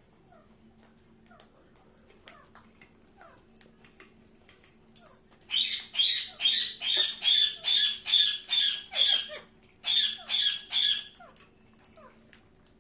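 Pet parakeet squawking: soft clicks and short falling chirps, then a loud run of about ten harsh, rapid calls, a short pause and three more.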